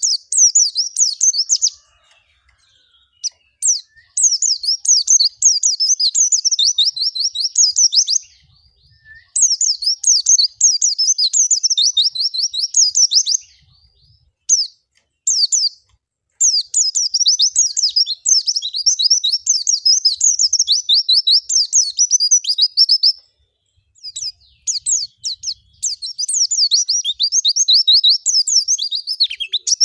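White-eye (pleci) singing a fast, high twittering song in runs of several seconds, with short pauses between runs. It is a lively, continuous 'gacor' song used as a lure track to get other white-eyes to sing.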